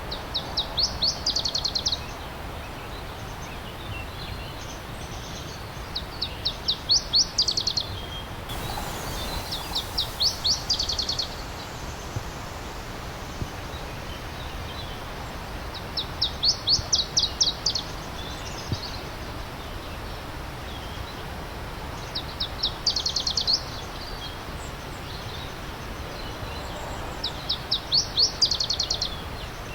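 A songbird repeating the same short song six times, each a quick run of about ten high notes lasting a second or two, spaced every four to six seconds, over the steady rush of stream water.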